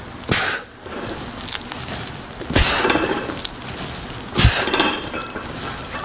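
Loaded barbell knocking and its plates clinking with each rep of an overhead press, four times, about every two seconds.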